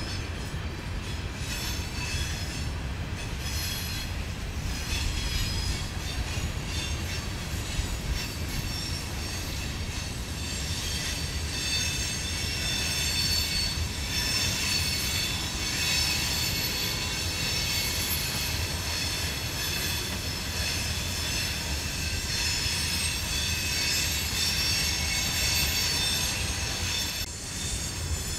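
Empty steel rock hopper cars of a freight train rolling past, their wheels rumbling steadily on the rails with a continuous high-pitched wheel squeal.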